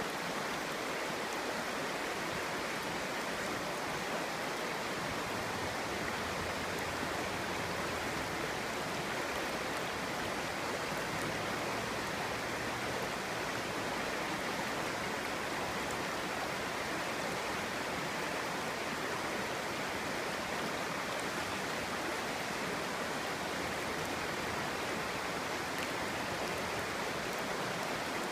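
Clear stream flowing over rocks: a steady, even babbling rush of water.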